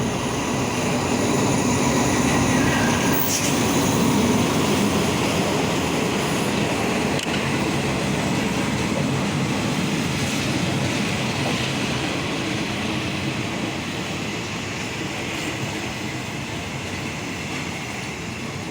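Train running on the rails, a steady rumble that slowly fades, with one short sharp click about three seconds in.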